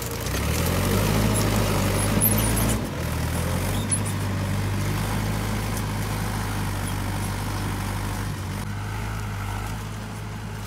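Mahindra 595 XP Plus tractor's diesel engine running steadily, with a brief dip and slight change in engine note about three seconds in.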